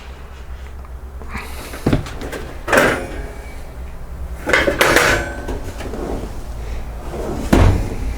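Cabinet doors, drawers or appliance doors in a travel-trailer kitchen being opened and shut: a handful of separate knocks and short clatters spread over several seconds.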